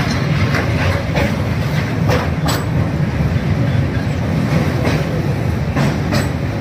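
Passenger train running, heard from inside a coach: a steady rumble with the wheels clacking over rail joints, several clacks in the first couple of seconds and two more near the end.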